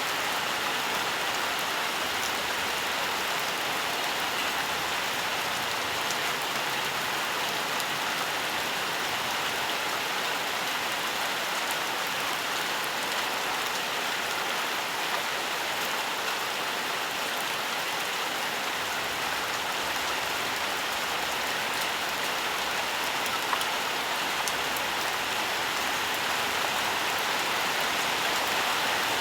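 Steady rain falling: a dense, even hiss of drops with a few sharper single drops ticking now and then.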